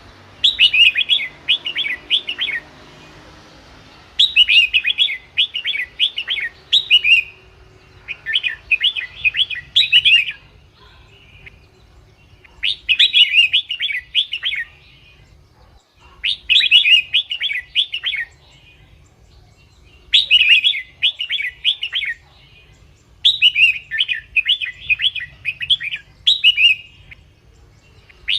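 Red-whiskered bulbul singing: short, rapid phrases of bright, warbling notes repeated about every three seconds with brief pauses between them.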